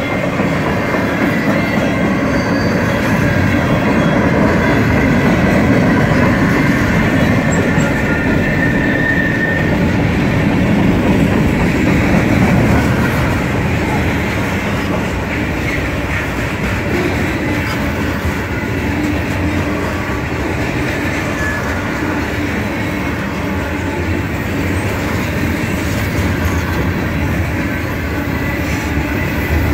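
Freight train cars, tank cars and covered hoppers, rolling steadily past at close range: a continuous rumble and clatter of steel wheels on the rails. A faint thin wheel squeal shows in the first few seconds and again around eight seconds in.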